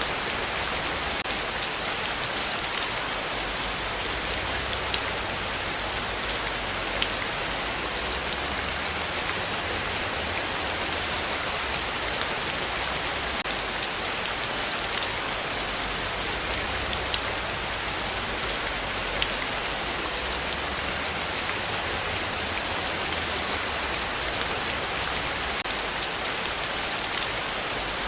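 Heavy, steady rainfall pattering on surfaces, with scattered individual drop ticks and no thunder.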